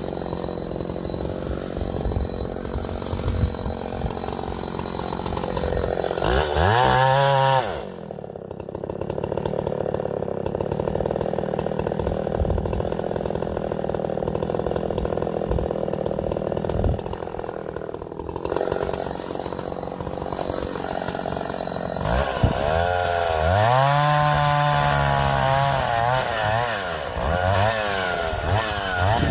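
Vintage Husqvarna L65 two-stroke chainsaw running while bucking firewood. It revs up and back down about a quarter of the way in, runs steadily for a stretch, then revs up and down repeatedly near the end.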